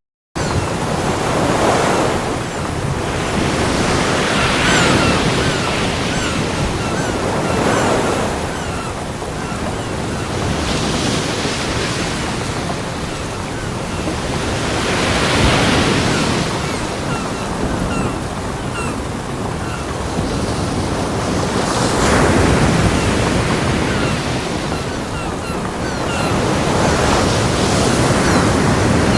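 Ocean waves breaking on a beach. The surf swells and falls back every few seconds in a steady, continuous wash. The sound cuts out for a split second at the very start.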